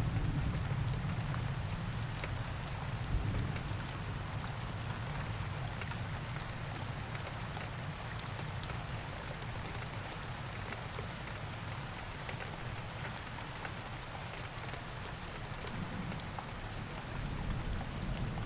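Steady rain ambience, a continuous hiss with scattered tiny drop ticks. A low rumble of thunder dies away at the start.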